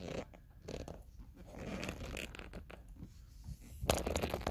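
Rustling and handling noises, with a brief cluster of sharper clicks and knocks near the end.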